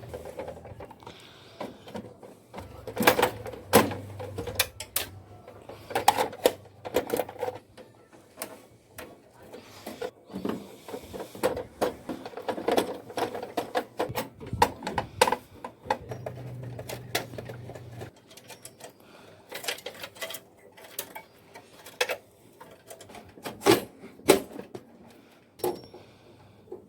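Irregular clicks, knocks and rattles of hands working on parts of a Canon imageRUNNER copier, with a low hum that comes and goes.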